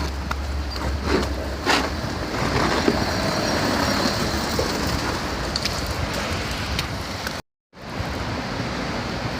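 Steady road traffic noise mixed with wind on the microphone. The sound cuts out completely for a moment about seven and a half seconds in.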